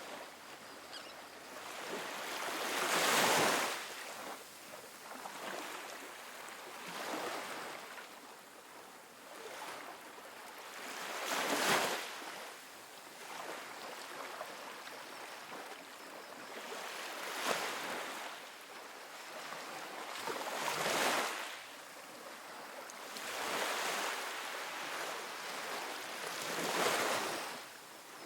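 Small ocean waves breaking and washing up a sandy beach, a soft hissing surge every few seconds over a steady background wash.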